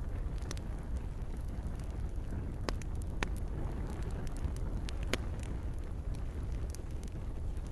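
Campfire crackling, with a few sharp pops, the clearest around three and five seconds in, over a steady low rumble and the hiss of gentle rain.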